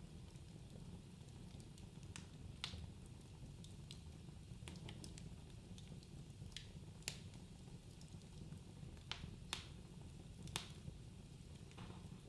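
Wood fire burning in a fireplace: a low steady rumble of the flames with sharp, irregular crackles and pops from the burning logs.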